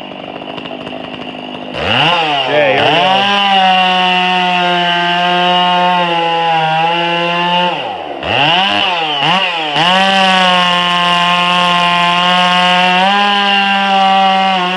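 Chainsaw running at high revs. It revs up to a steady full-throttle pitch about two seconds in, drops and wavers briefly around eight seconds, then revs back up and holds steady.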